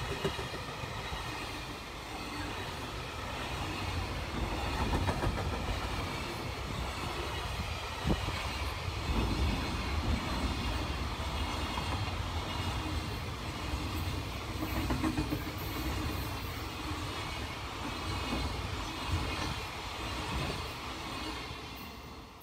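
Loaded container flatcars of a freight train rolling past: a steady rush of steel wheels on rail with clattering over the rail joints. It fades off near the end as the last wagon goes by.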